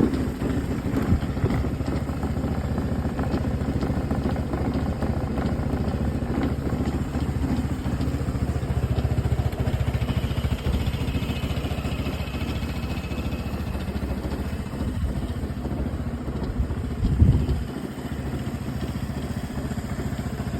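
2010 Vespa LX 150 scooter's single-cylinder four-stroke engine idling steadily, with one brief louder swell about three-quarters of the way through.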